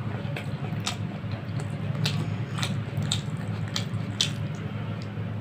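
Chewing a mouthful of rice: wet mouth smacks and clicks, about two a second, over a steady low hum.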